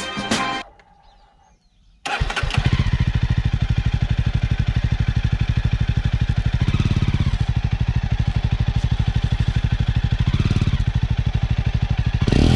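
Jawa 42's single-cylinder engine running at idle with an even exhaust beat, the throttle blipped briefly twice. It cuts in suddenly about two seconds in.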